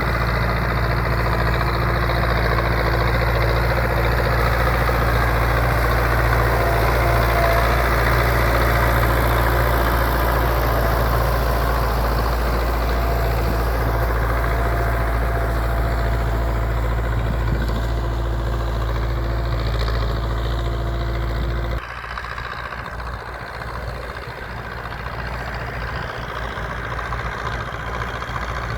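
MTZ-82 Belarus tractor's four-cylinder diesel engine running steadily with a deep hum. About three quarters of the way through, the sound drops suddenly to a quieter, thinner level.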